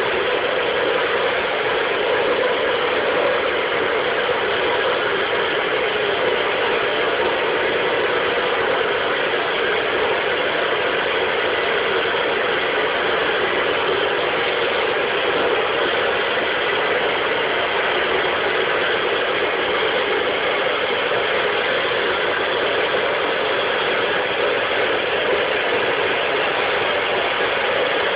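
Steady, unchanging roar of a gas burner heating the lead melting pot for pouring a lead joint.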